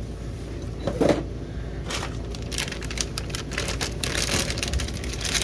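Packaging being handled: crinkling and rustling with scattered clicks and taps, denser near the end, over a steady low hum.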